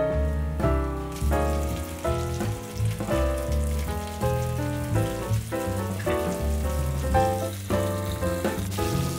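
Breaded cod tongues frying in shallow hot oil in a stainless steel pan, a steady sizzle that comes in about a second in as pieces are laid into the oil, under background music with a bass line.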